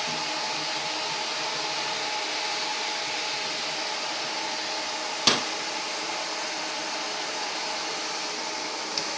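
Vacuum cleaner running steadily, with a sharp knock about five seconds in and a smaller click near the end.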